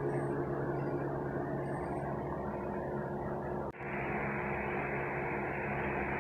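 A steady mechanical hum with a few held low tones, like a running fan or air conditioner, that drops out for an instant about two-thirds of the way through.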